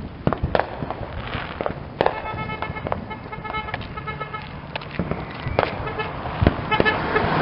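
Scattered sharp firework pops and bangs, with a car alarm sounding in rapid pulsing tones from about two seconds in; the alarm breaks off briefly and starts again near the end.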